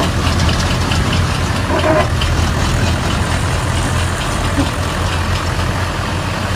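Heavy diesel engine noise running steadily, a loud low drone with a mechanical rattle over it.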